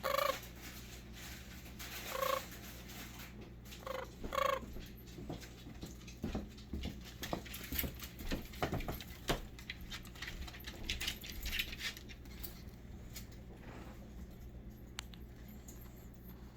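Pet bird giving four short, pitched calls within the first five seconds, followed by scattered light clicks and taps, over a steady low hum.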